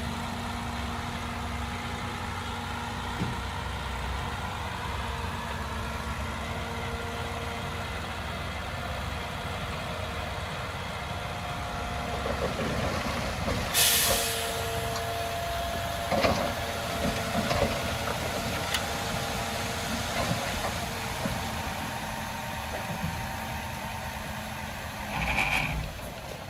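Heavy diesel engine of earthmoving machinery running steadily, with a sharp burst of air hiss about halfway through, a few clanks just after, and a short louder burst near the end.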